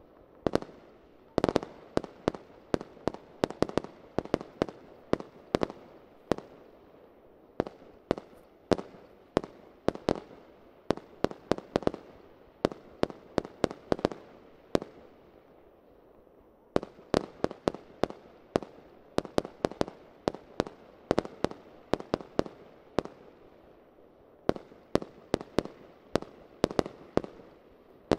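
Fireworks display: a rapid, irregular string of sharp bangs from shells bursting in the air, several a second, each followed by a short echo. There is a brief pause a little past halfway before the bangs resume.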